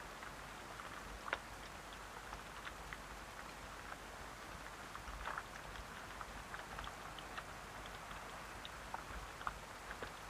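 Steady rain falling, with many individual drops ticking on a surface and a couple of louder drips about a second and about five seconds in.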